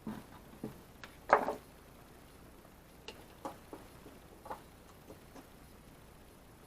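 Irregular small clicks and knocks of hands handling tools and parts while wiring a halogen floodlight, with one louder knock about a second and a half in.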